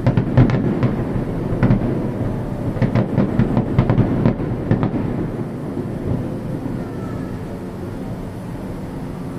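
Aerial fireworks going off: a rapid run of bangs and crackles over a low rolling rumble for the first five seconds or so, then the rumble and echoes die down.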